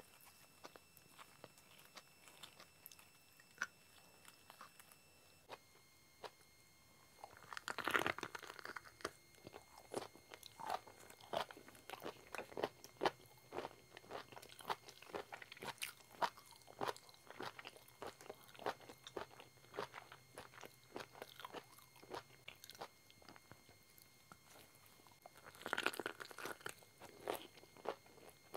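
Close-miked bites and crisp, crunchy chewing of black wood ear fungus. The first several seconds hold only faint clicks, then a loud bite comes about eight seconds in, followed by steady chewing and a second bite near the end.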